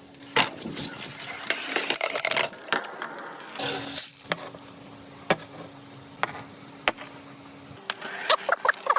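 Glass marbles clicking and clattering as they roll and knock along a plastic marble run, in irregular bursts with a flurry of clicks near the end. A faint steady hum of a small motor is heard at times.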